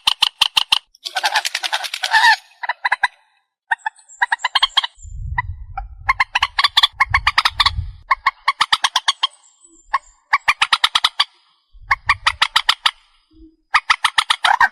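Trích ré bird calling: a series of harsh, rapid rattling call phrases, each a fast train of notes, repeated with short pauses. Low thuds come under the calls midway through.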